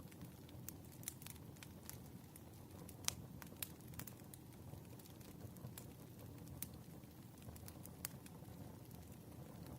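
Wood fire burning faintly, with a low steady hiss and irregular crackles and pops from the firewood. The sharpest pop comes about three seconds in.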